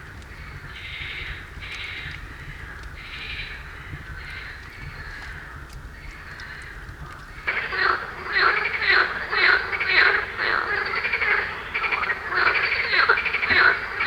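Frogs croaking in chorus: faint repeated calls at first, then from about halfway in a loud run of rapid, pulsed croaking.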